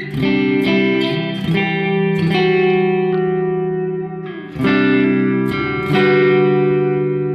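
Electric guitar playing chords through the Donner Versa Yellow Fall 2 pedal with reverb and delay both on. Chords are struck about six times, and each rings on and blends into the next with a trailing wash.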